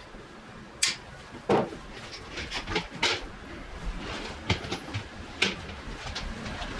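A string of irregular knocks and clatter of hard parts being handled, the loudest about one and one and a half seconds in, with lighter ones after.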